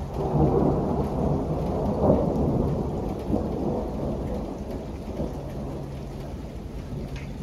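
A roll of thunder over steady rain: it comes in suddenly, is loudest in the first two or three seconds, then slowly dies away.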